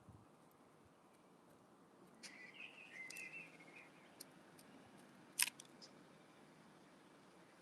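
Faint twittering chirps of a small bird for about two seconds, with a few scattered sharp clicks, the loudest about five and a half seconds in.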